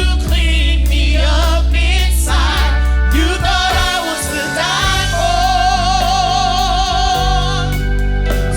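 Gospel singing with instrumental accompaniment; about halfway through, a voice holds one long note with vibrato.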